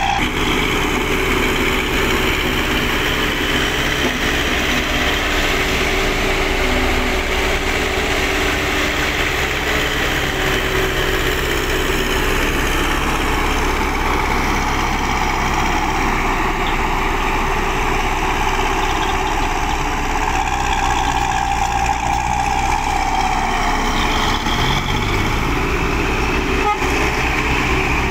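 Hino Dutro dump truck's diesel engine running steadily, with steady higher-pitched tones over the low engine rumble throughout.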